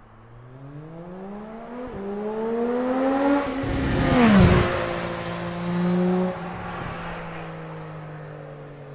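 Triumph Street Triple's inline three-cylinder engine accelerating hard through the gears, its pitch climbing with a short dip at each upshift. It passes close about four and a half seconds in with a sudden drop in pitch, then fades as it moves away.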